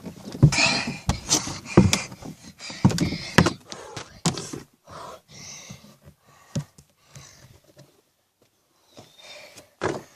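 Handling noise from a handheld camera: a quick run of knocks and thumps as it is jostled while climbing through an obstacle, thinning out after about four seconds to a few scattered soft knocks.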